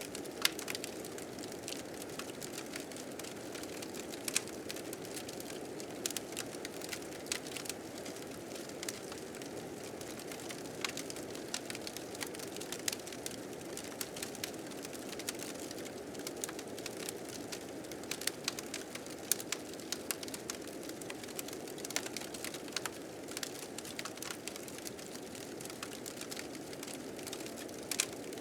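Blizzard wind as a steady, low rush, with a wood fire crackling and popping in many sharp clicks throughout.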